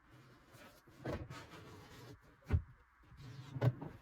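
Wooden wardrobe drawer being pushed along ball-bearing drawer runners, with cardboard packers squeezed between runner and drawer side: rolling and rubbing, with a few short knocks, the loudest about two and a half seconds in.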